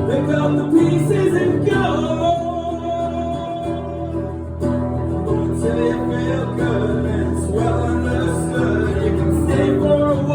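Live acoustic song: acoustic guitar playing under sung, held vocal notes.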